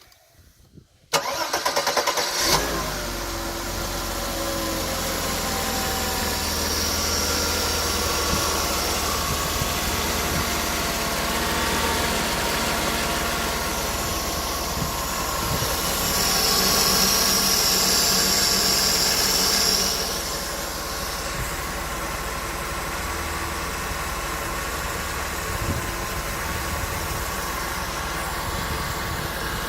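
Mercedes-Benz M103 2.6-litre straight-six in a W124 260 E is cranked by the starter for about a second, catches and settles into a steady idle. It is briefly a little louder with a hiss partway through.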